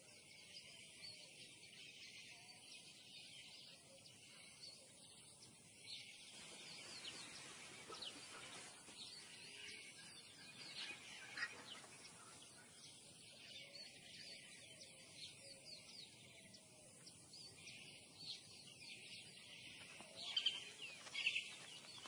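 Faint birdsong: many short, high chirps and whistles over a soft background hiss, with a few louder calls near the end.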